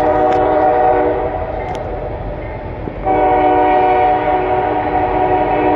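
Norfolk Southern freight locomotive's air horn sounding two long blasts, the first fading out about two seconds in and the second starting about three seconds in, over the low rumble of the train.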